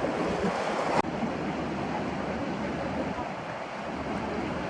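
Steady outdoor background rush, like wind on the microphone, with faint voices; the sound breaks off sharply about a second in and carries straight on.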